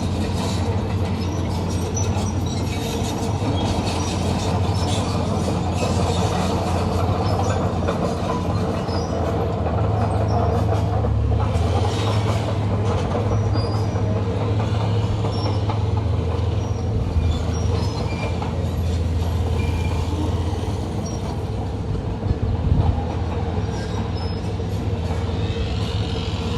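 Komatsu D41P crawler bulldozer working: its diesel engine running steadily under load while the steel tracks squeal and clank, with a few louder knocks near the end.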